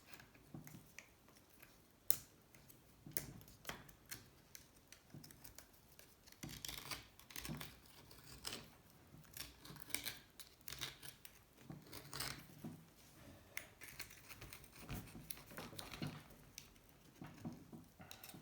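Irregular scraping and clicking of a tool digging caked sand, oil and corrosion out of a Honda C70's aluminium engine crankcase.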